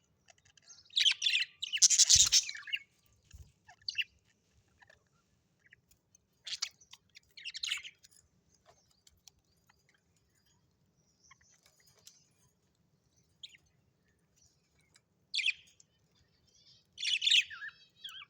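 Small parrots chirping and calling in short separate bursts with quiet gaps between. The loudest flurry comes about two seconds in, with a low knock under it.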